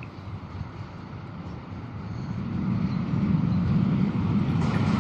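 A 060-DA diesel-electric locomotive approaching, its low engine rumble growing steadily louder from about two seconds in.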